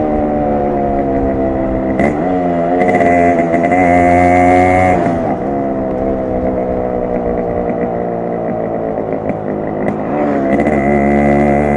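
Yamaha RX 100's two-stroke single-cylinder engine and exhaust on the move. The revs fall, then pick up about two seconds in and climb until about halfway, drop, wind down slowly as the bike slows, and rise again near the end.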